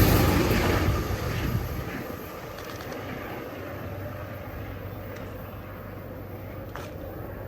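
A Metro-North commuter train passing and moving away, its rumble dying down over the first two seconds, then a steady low hum.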